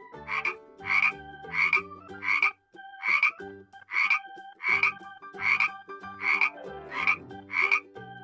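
Frog croaking over and over in short, regular calls, roughly one every three-quarters of a second.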